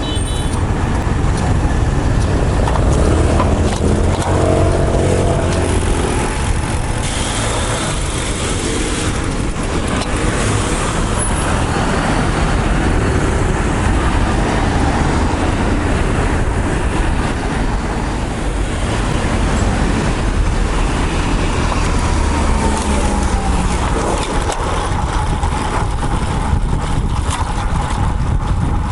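Road traffic heard from a moving bicycle, with rumbling air rush over a bike-mounted action camera's microphone. Cars and trucks pass, one with an engine note that falls in pitch late on.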